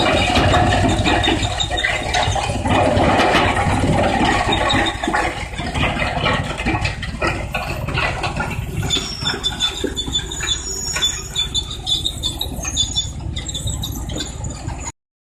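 Industrial wood pallet shredder running, grinding and cracking wood with a dense crackle over a low machine rumble. High thin squeals come in during the second half, and the sound stops abruptly near the end.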